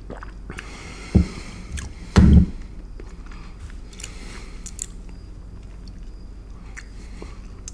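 Close-miked mouth sounds of chewing a caramel and chocolate candy: small wet clicks and squishes, with two loud dull thumps about one and two seconds in.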